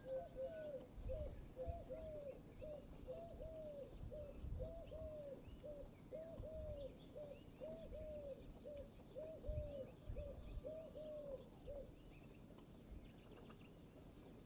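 A bird calls a long series of short, low, arched cooing notes, about two a second, stopping near the end. Small birds chirp faintly in the background, and soft low rumbles sit underneath.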